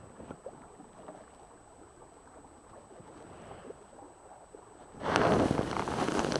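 Faint wind and water noise aboard a small sailing dinghy. About five seconds in, a sudden loud rushing noise takes over to the end.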